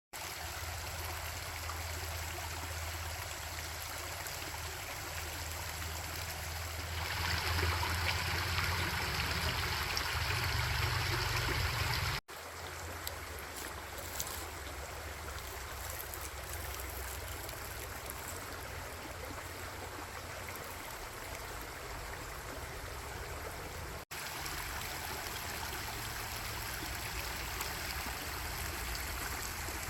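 A stream running with a steady rush of water, with a low rumble underneath. The rush grows louder and brighter for a few seconds about a quarter of the way in, and the sound breaks off abruptly twice, at about a third and at about four fifths of the way, where one recording is cut to the next.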